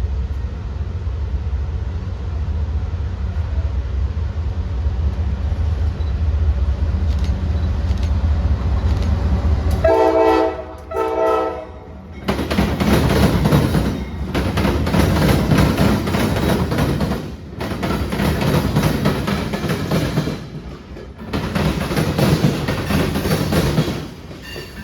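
Low steady rumble, then two short blasts of a train horn about ten seconds in, followed by loud, noisy sound that drops out briefly three times.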